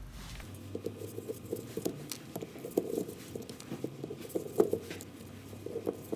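Pliers working the plastic filler caps off a YB4L-B motorcycle battery: irregular small clicks and taps of metal on plastic, the sharpest about four and a half seconds in.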